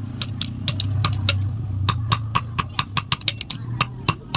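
Hammer striking steel on an anvil in quick ringing blows, about four a second, over a steady low hum.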